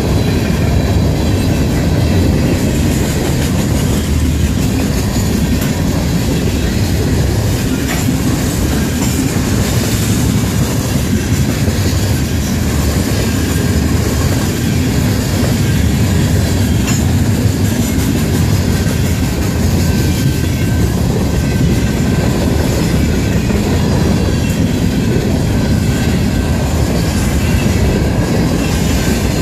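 Freight train cars rolling steadily past at close range: a continuous heavy rumble of steel wheels on the rails, with the clatter of wheels over rail joints.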